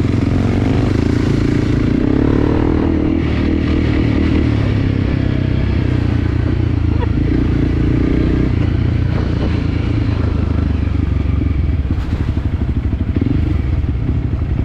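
Enduro motorcycle engine running steadily while being ridden, with rattling from the bike and a change in the engine note about two-thirds of the way through.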